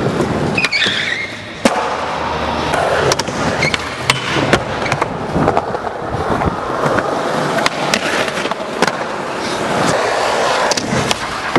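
Skateboard wheels rolling, broken by many sharp clacks of the board: tail pops, flicks and landings.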